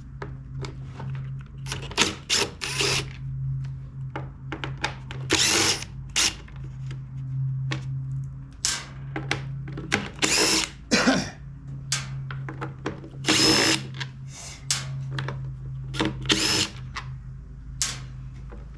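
Cordless drill-driver running in short spurts, backing out the screws of a backpack blower's housing, with clicks and clatter of parts between the runs.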